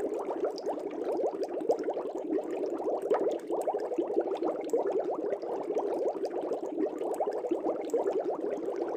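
Aquarium air bubbles rising and breaking at the surface of a fish tank: a continuous dense bubbling made of many small bubble pops.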